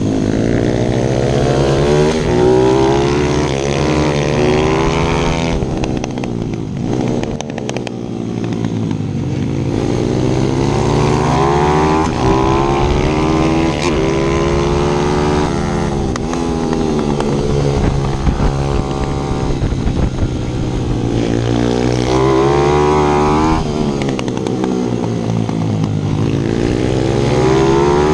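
Pit bike's small single-cylinder four-stroke engine revving hard under acceleration, its pitch climbing, dropping back at each gear change or lift of the throttle, then climbing again. It eases off and drops lower about six to eight seconds in before building up again.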